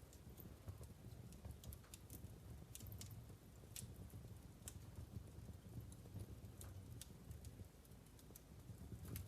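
Wood fire burning in a fireplace: logs giving off irregular, scattered crackles and pops over a faint low rumble, with a small flurry of pops near the end.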